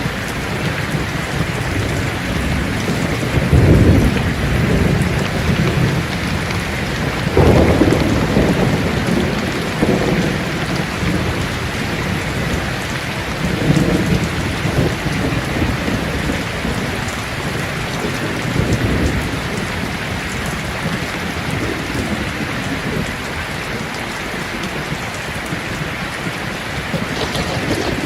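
Steady rain falling, with low rumbles of thunder swelling and fading several times, the strongest about 4 and 7 seconds in.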